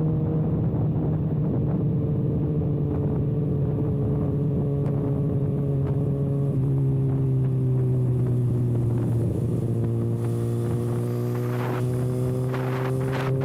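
Kawasaki ZX-6R inline-four engine running at a steady cruise with its exhaust canister removed, giving a loud, even drone. The pitch sags a little past the middle, then climbs slowly again.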